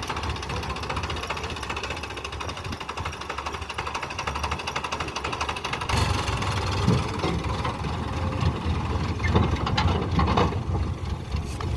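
Sonalika 50 RX tractor's diesel engine running with a fast, even knocking beat, growing louder and heavier about halfway through.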